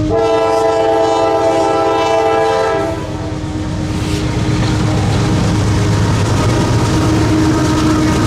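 Diesel freight locomotive's multi-chime air horn sounding one long chord for about three seconds, over the rumble and wheel clatter of a passing freight train. A fainter, lower single-note horn from a second locomotive sounds behind it.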